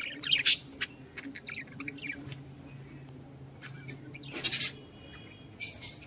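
Small birds chirping and squawking: several short, shrill calls a second or two apart, the loudest about four and a half seconds in.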